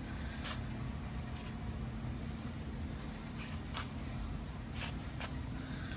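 Steady low background hum with a faint steady tone, and a few faint clicks spread through it.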